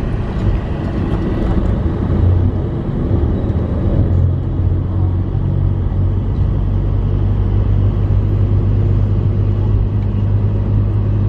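Motor vehicle on the move: a steady, loud low rumble of engine and road noise.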